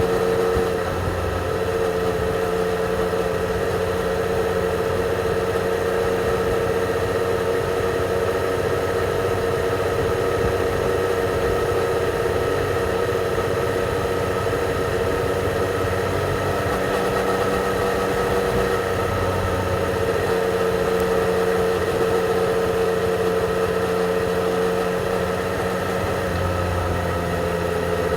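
Yamaha XSR 900's inline three-cylinder engine, heard from the rider's seat through its stock exhaust, running at fairly steady revs with small rises and falls.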